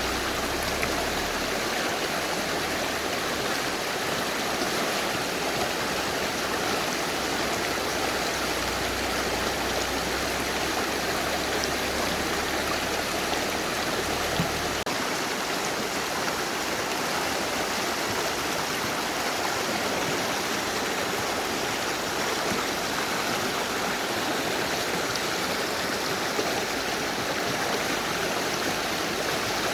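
Mountain river rushing steadily, an even, unbroken water noise. A low rumble underneath stops about halfway through.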